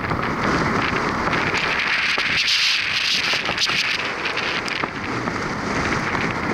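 Strong typhoon wind and rough surf: a loud, steady rush of noise that swells about two seconds in and eases slightly toward the end.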